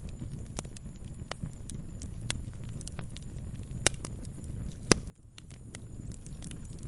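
Wood fire crackling in a fireplace: a steady low rumble of flames under scattered sharp crackles, with two loud pops about four and five seconds in. The sound drops away for a moment just after the second pop, then resumes.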